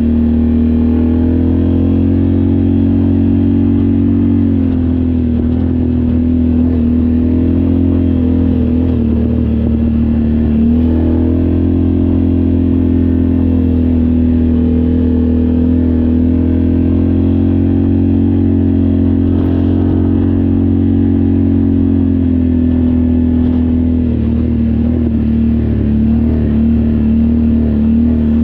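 ATV engine running under steady throttle, its pitch dipping and rising slightly a few times as the throttle eases and opens.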